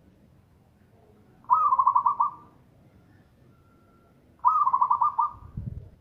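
Zebra dove (perkutut) cooing: two phrases about three seconds apart, each a quick run of rolling, stuttering notes lasting about a second.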